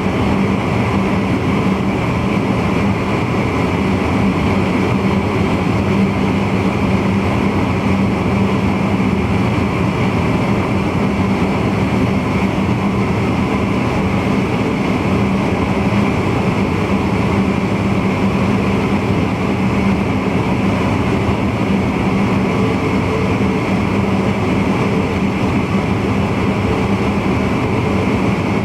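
Steady running noise of a VIRM double-deck electric intercity train, heard from the driver's cab, with a constant low hum under an even rushing noise.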